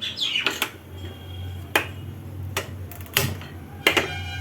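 Kitchenware clinking and knocking: about six separate sharp clicks spread out at uneven intervals over a low steady hum.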